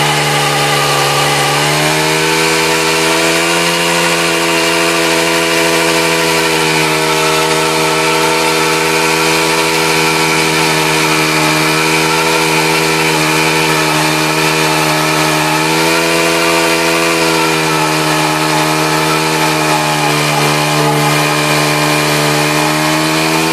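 Pit bike engine held at high, steady revs in a long burnout, the rear tire spinning against the ground. The revs sag slightly about two seconds in and again past the middle, then pick back up.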